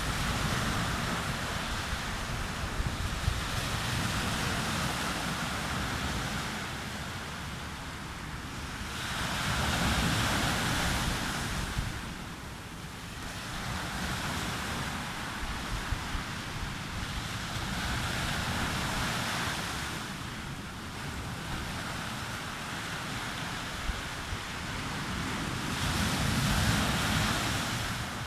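Sea surf breaking and washing up a beach, swelling and falling away in waves every several seconds, with wind rumbling on the microphone underneath.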